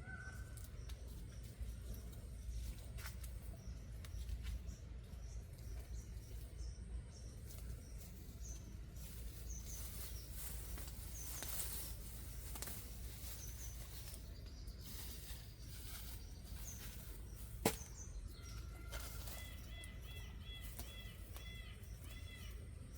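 Faint outdoor ambience of small birds chirping, with a quick run of repeated high notes near the end, over a steady low rumble. A single sharp click sounds about two-thirds of the way through.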